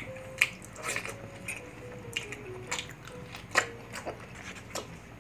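Close-up eating sounds: a person chewing food eaten by hand, with wet mouth smacks and several sharp biting clicks.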